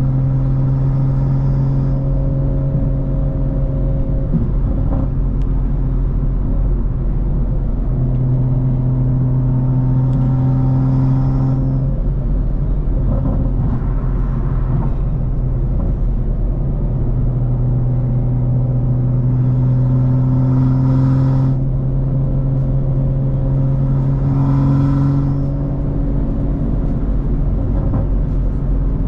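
BMW M340i's tuned turbocharged B58 inline-six running under way, holding a steady engine note for several seconds at a time, with brief breaks between the stretches.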